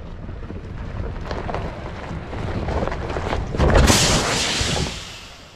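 Wind buffeting the microphone over the low rumble and scattered knocks of a truck rolling over rough, rocky ground. A louder rushing gust starts just under four seconds in and dies away about a second later.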